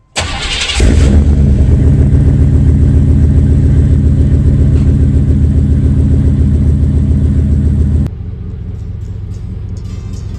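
Chevrolet OBS pickup engine cold-starting: a short crank, and it catches within a second, then runs loud and steady. About eight seconds in, the sound drops suddenly to a quieter engine running under music.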